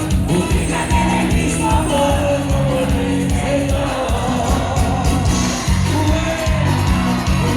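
Live cuarteto music played by a band, with a singer's voice carrying the melody over a steady, repeating bass line and crowd shouts mixed in.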